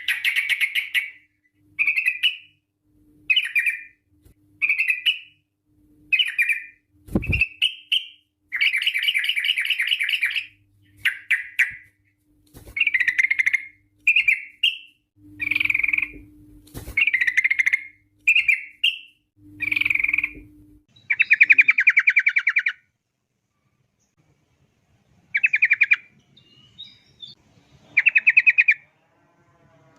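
Yellow-vented bulbul (trucuk) singing in quick, rattling phrases, one short burst after another about every second. Longer runs come near the middle and shortly after, with a pause of a couple of seconds about three-quarters through. A single low thump sounds about seven seconds in.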